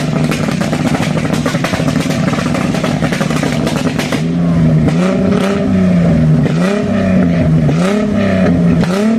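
Tuned car engine running at a steady idle, then revved in short blips about four times over the last five seconds, each pitch rising and falling back.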